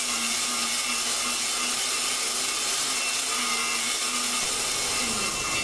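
Drill running steadily, spinning an engine valve against its seat in grinding compound to lap it: a constant motor hum under a gritty rubbing hiss.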